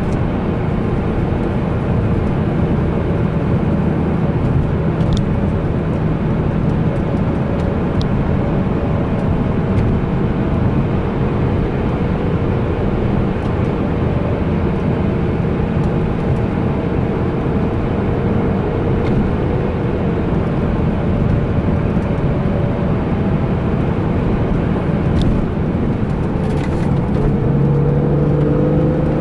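BMW E46 M3's S54 straight-six engine running at a steady cruise, heard from inside the cabin with tyre and road noise, its revs rising a little near the end.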